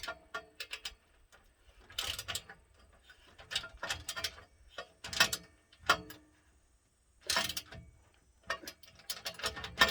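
Ratchet wrench clicking in short bursts as bolts are turned down one after another, with pauses between the strokes.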